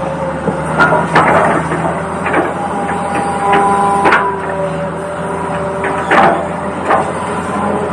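Radio-controlled toy excavator working: steady whining tones that hold and shift in pitch, with several sharp knocks and clacks scattered through.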